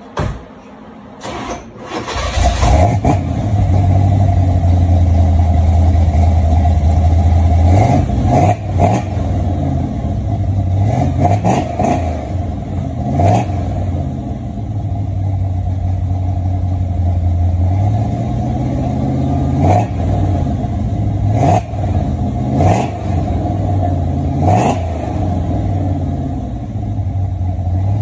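A 1981 Chevrolet Corvette's small-block V8 starts up about two seconds in, then idles through the exhaust with a series of short throttle blips.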